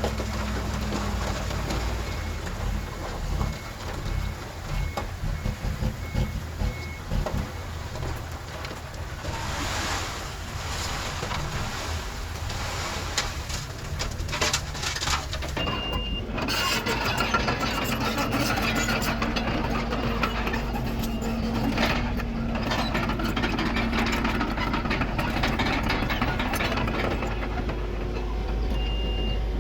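Diesel engines of heavy earthmoving machines, a dump truck and a bulldozer, running steadily. A reversing alarm beeps about eight times early on, and a single higher beep sounds near the middle and again at the end.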